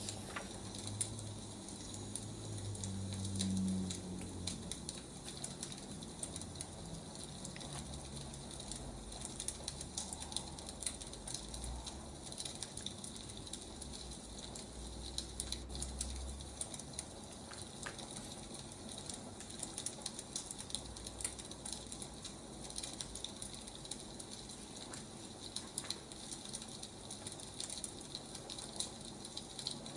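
Firewood burning: a steady stream of small crackles and pops over a soft hiss, with a soft low rumble about three seconds in.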